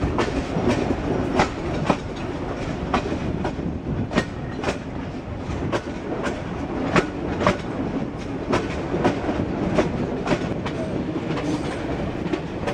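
Passenger train heard from aboard a carriage while running: a steady rumble of wheels and carriage, with the wheels clicking over rail joints, roughly two sharp clacks a second at uneven spacing.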